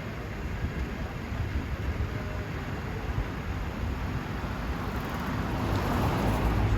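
Street traffic noise with a low vehicle engine rumble, growing louder toward the end as a vehicle passes close.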